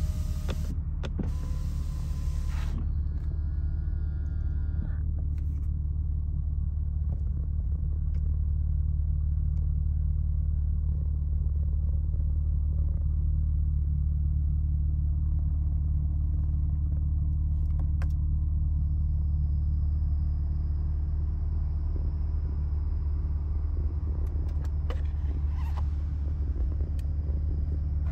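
2023 BMW M4 Competition's 3.0-litre inline-six idling steadily, a low, even drone.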